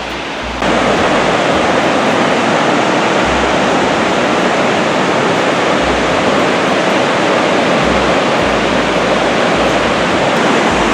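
Steady rushing roar of a large waterfall, cutting in abruptly a little under a second in.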